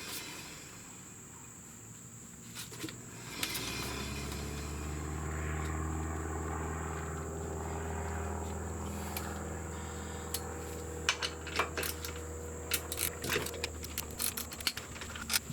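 A constant high insect-like chirr and a low hum that swells about three seconds in and slowly fades. Near the end comes a quick run of sharp metal clicks and clinks as tools work on the motorcycle's rear brake caliper.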